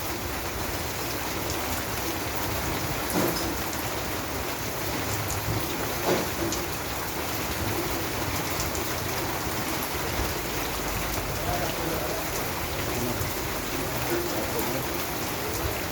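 Steady rain falling in an even hiss, with a few louder drops striking about 3 and 6 seconds in.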